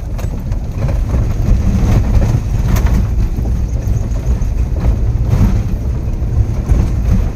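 Interior of a vehicle driving slowly over a badly potholed road: a steady low engine and road rumble, with a few knocks and jolts from the bumps, one around three seconds in and another past five seconds.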